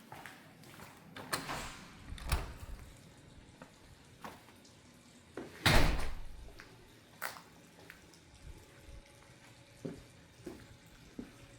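Scattered knocks and clicks in a quiet room, with one louder knock about halfway through that trails off briefly.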